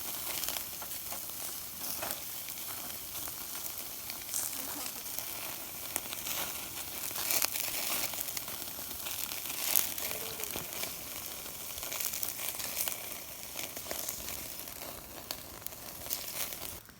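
Ribs sizzling on a grill over an open fire, a steady hiss with frequent small crackles and pops.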